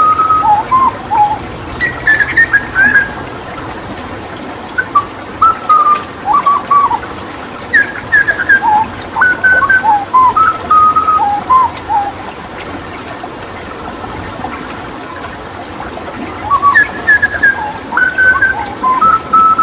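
Hooded butcherbird singing phrases of short whistled notes that jump up and down in pitch, with a pause of a few seconds past the middle, over a steady rush of running water.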